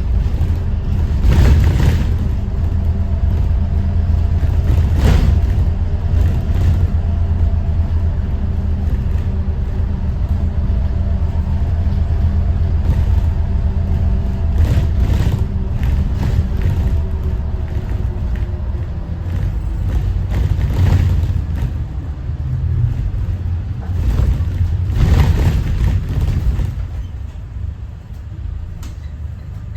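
Thomas Saf-T-Liner C2 school bus under way, its Detroit diesel engine running with a steady low rumble and a faint whine, while the body gives several sharp knocks over bumps. The rumble eases off near the end.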